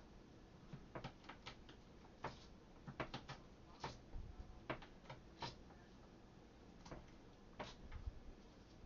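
Scattered light clicks and knocks at irregular intervals, some in quick pairs, of vegetables and glass mason jars being handled while packing pickles.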